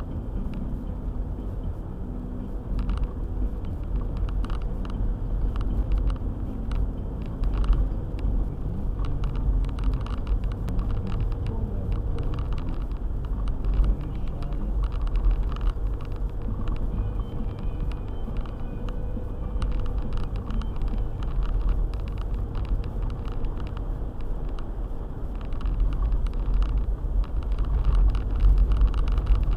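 All-wheel-drive car driving, a steady low rumble of engine and road noise with many small knocks and clicks scattered through it.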